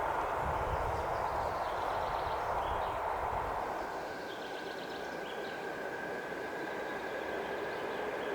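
Suburban electric multiple unit of the EP2D family running on the track: a steady rail and running noise. The low rumble drops away about four seconds in, and a steady high whine comes in.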